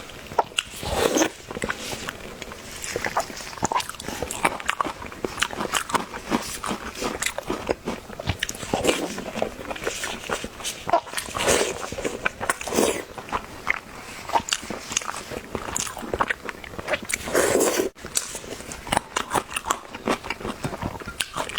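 A person biting and chewing food close to the microphone: irregular crunches and mouth clicks, bite after bite.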